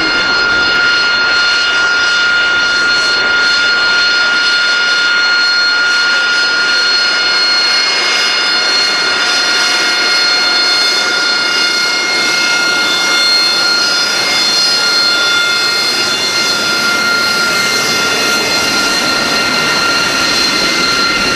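AV-8B Harrier II's Rolls-Royce Pegasus turbofan running loud and steady, a jet rush with a high whine of several held tones that barely changes pitch.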